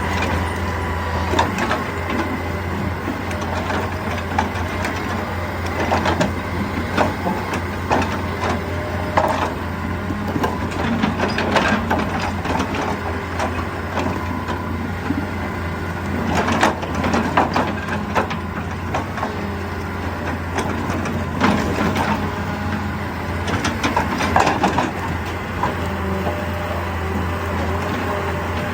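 Excavator working rock: its diesel engine runs steadily under irregular sharp cracks and crunches of breaking, scraping stone.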